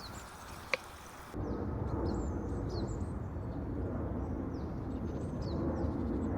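Small birds chirping in short falling calls over a steady low rushing noise that sets in about a second in; one sharp click shortly before it.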